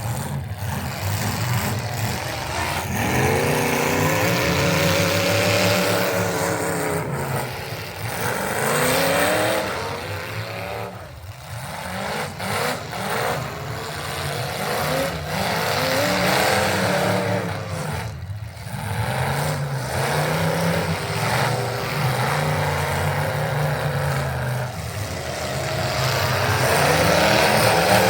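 Pulling truck's engine running hard under load during a truck-pull run, its pitch rising and falling again and again as the throttle is worked, with short drops near the middle.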